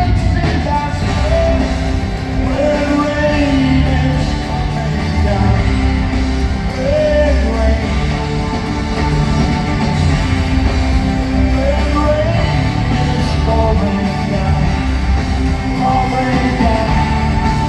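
Live rock band performing, with a lead vocal over the band.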